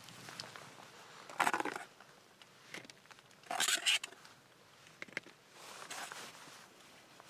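Two short bursts of close handling noise, a rustling scrape about a second and a half in and another near four seconds, with a few small clicks between.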